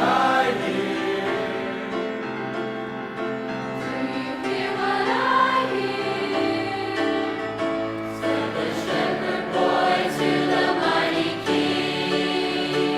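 High school choir singing, many voices holding chords together.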